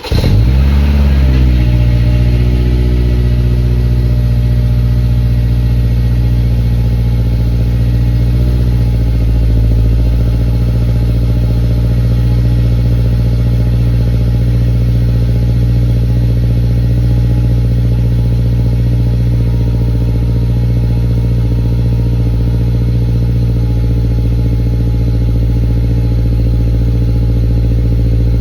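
Subaru Forester 2.0i-L's naturally aspirated flat-four boxer engine through an aftermarket Fox exhaust, catching on a cold start with a brief flare of revs and then settling into a steady fast idle. The note shifts slightly about nine seconds in and then holds steady.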